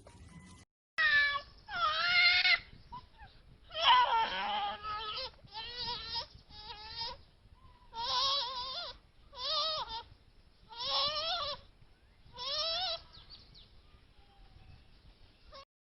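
An animal calling again and again: about eight pitched calls with a wavering pitch, each up to about a second long, starting about a second in.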